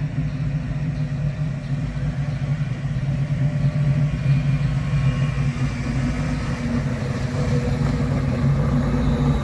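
A car engine running steadily at low speed, a low even hum that carries on without a break.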